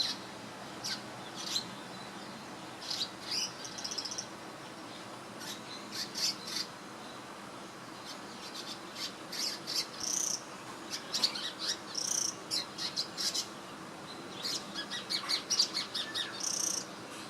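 Small swiftlet-like bird chirping: quick, high, thin chirps in irregular clusters, with short pauses between the runs.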